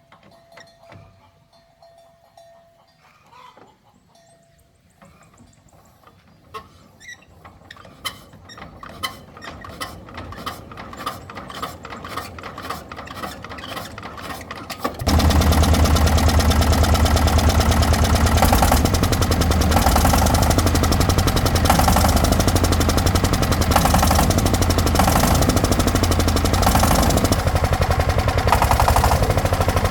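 An engine being turned over, a run of clicks and knocks coming faster, then catching about halfway through and running steadily with a low, even beat.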